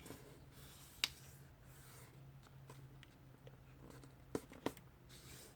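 A sheet of printer paper being folded and creased by hand: soft rustling and rubbing, with a sharp tap about a second in and two more close together near the end. A faint steady low hum runs underneath.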